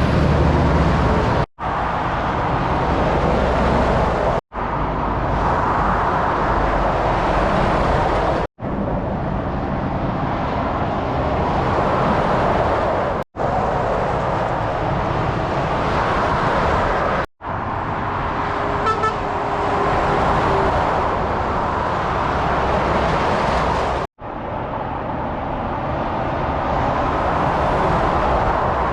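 Continuous motorway traffic noise as lorries pass at speed, in short stretches broken by abrupt cuts. A vehicle horn sounds briefly about two-thirds of the way through.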